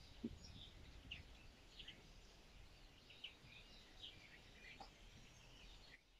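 Near silence, with faint outdoor ambience and small birds chirping now and then in the distance.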